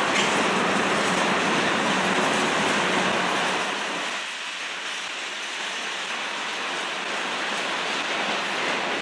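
Freight cars of a manifest train rolling past on the rails: a steady rumble and rattle of wheels on track, easing off for a moment about halfway through before building again.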